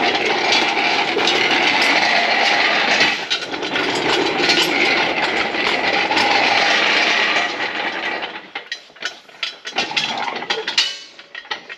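Shop crane (cherry picker) being rolled across the shop floor, its casters and frame rattling steadily. About eight seconds in, the rolling stops and gives way to scattered clicks and knocks.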